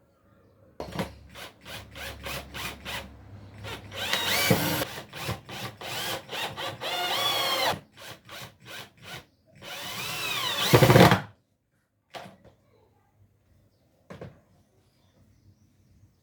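Power drill run in a string of short trigger bursts, then in three longer runs whose motor pitch rises and falls. It stops about eleven seconds in, followed by a few light knocks.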